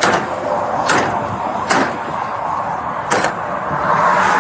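Sharp metallic clanks roughly once a second, four in all, from bolt cutters being worked against a thick padlock that they keep bending on rather than cutting. A steady rushing noise runs underneath.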